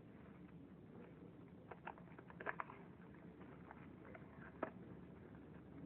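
Faint, scattered soft clicks and rustles of slime being handled and pushed into a glove, with a few small sticky pops around two seconds in and one near the end.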